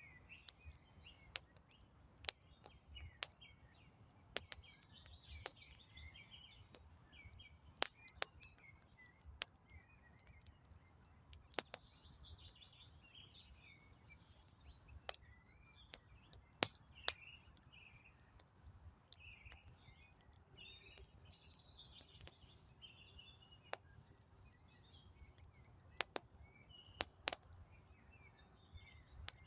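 Wood campfire crackling, with sharp, irregular pops a few times a second at most. Small birds chirp and sing in the background throughout.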